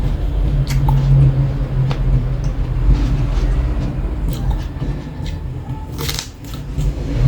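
Steady low engine rumble from a nearby vehicle, with scattered sharp crunches and clicks of eating crisp fried food and a louder crunch about six seconds in.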